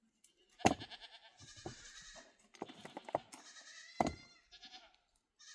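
Small livestock bleating several times in wavering calls, broken by a few sharp knocks, the loudest about half a second in and near four seconds.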